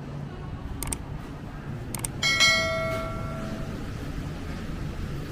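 A bell rings once about two seconds in, its ring fading away over about a second and a half, just after two sharp clicks, over a steady low rumble of street noise.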